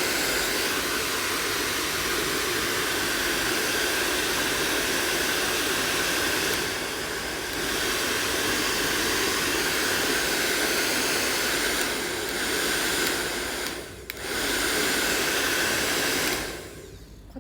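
Salon-style hand-held blow dryer running at full power, a steady loud rush of air. About three-quarters of the way through it dips briefly and comes straight back, then it is switched off near the end.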